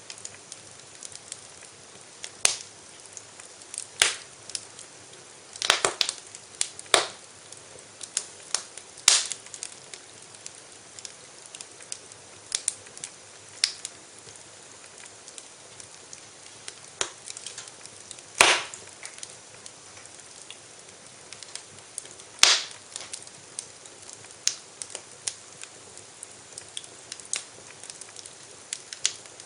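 Wood fire crackling in a fireplace: a steady soft hiss with irregular sharp pops and snaps, a handful of them much louder than the rest.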